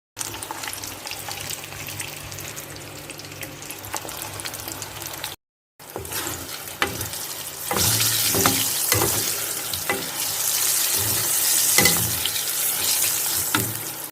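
Food frying and sizzling in a hot pan, with a steady hiss. After a short break about five seconds in, the sizzling grows louder and a utensil stirs it, with a string of knocks and scrapes against the pan.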